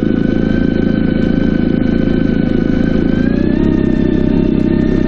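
A loud, steady motor drone with a whine that rises slightly in pitch about three seconds in.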